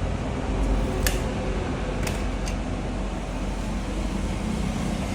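A steady low mechanical rumble, like an engine or motor running, with a few sharp clicks or knocks.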